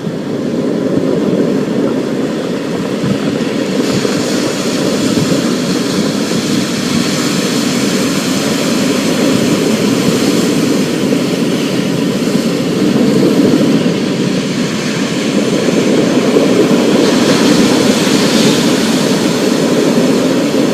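Thunderstorm: a steady low rumble under a hiss of rain, the hiss growing stronger about four seconds in and swelling again near the end.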